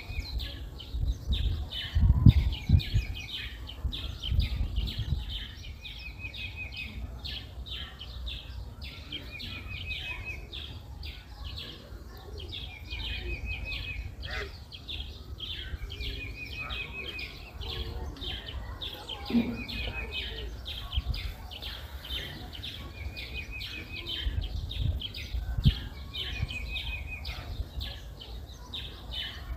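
A bird singing a short, quick trilled phrase over and over, every two to three seconds, with other chirps in between. Low thumps are loudest about two seconds in and again near the end.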